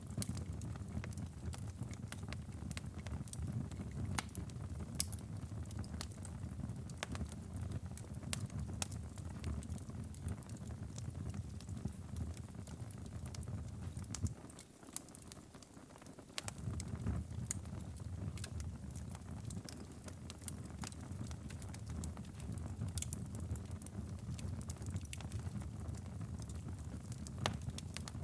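Wood fire in a fireplace crackling, with scattered sharp pops over a steady low rumble that drops away briefly about halfway through.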